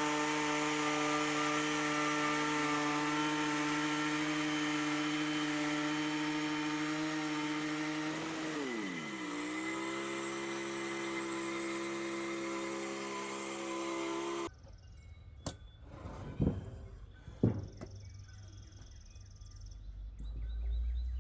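Small gas engine of a sawmill running steadily while the blade cuts a 2-inch slab off a log. Its pitch dips about eight seconds in and settles lower. It stops abruptly about two-thirds of the way through, leaving a few knocks and clicks.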